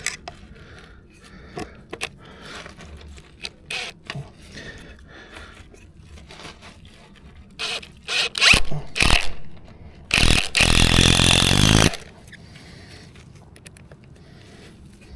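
Clicks and knocks of a cordless drill-driver being handled, a few short trigger bursts about eight seconds in, then the drill's motor running for just under two seconds near the end, driving a screw into the timber frame.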